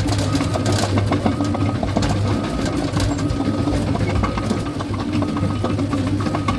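Caterpillar bulldozer's diesel engine running steadily, with the clatter of its steel tracks.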